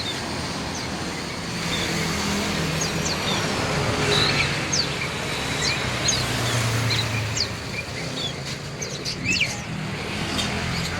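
Many small caged songbirds chirping, short sharp calls scattered throughout, over steady road traffic noise with a low engine hum.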